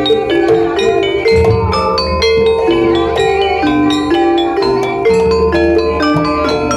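Gamelan music for a kuda lumping dance: struck metal-keyed instruments play a fast repeating melody over deep low notes, with many sharp strikes.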